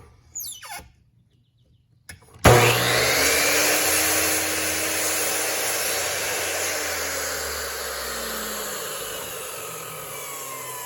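Electric chop saw switched on about two and a half seconds in, its motor starting with a sudden loud whine, then running and slowly winding down, the whine falling in pitch as the blade coasts. Light handling sounds and near silence come before it.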